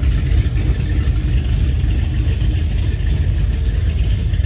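Classic car or hot rod engine running with a steady, deep rumble.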